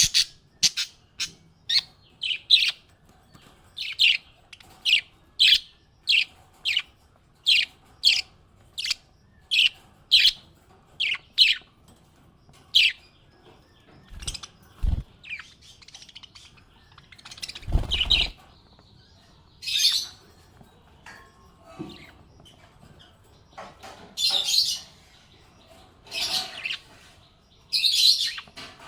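Small pet parrot chirping: a quick run of short, sharp, high chirps for the first half, then fewer, longer, harsher calls. A few low thumps come in the middle.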